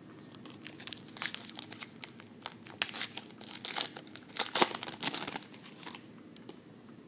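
Foil wrapper of a pack of trading cards being torn open and crinkled by hand, in irregular crackles, loudest about two thirds of the way through.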